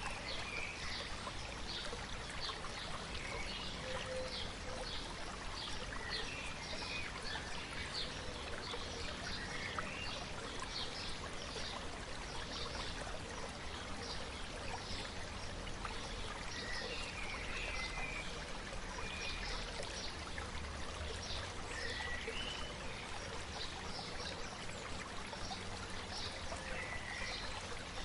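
A river babbling steadily, with small birds chirping repeatedly over it.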